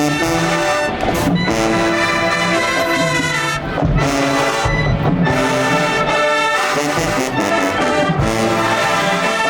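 Brass band music: trombones and trumpets playing a loud, full tune over regular bass drum hits.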